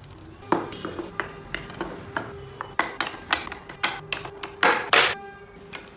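Background music with a series of irregular, sharp taps of carving tools on wood, the loudest two close together near the end.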